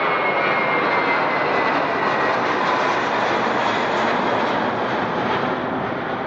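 Airliner engines running loud and steady as a plane passes close by, with a high whine that sinks slightly and fades about two seconds in.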